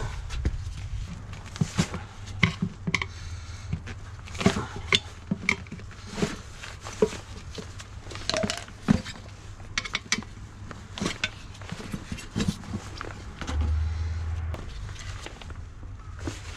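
Irregular clicks, clinks and knocks of metal tools and parts being handled during scooter repair work, over a steady low hum.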